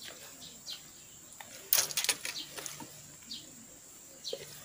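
Small birds chirping in scattered short, falling chirps, with a brief sharp crackle a little under two seconds in.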